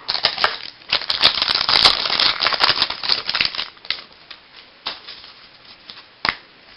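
Trading cards being handled and flipped through, a dense crackly rustle with many small clicks for the first three seconds or so, then a couple of single flicks.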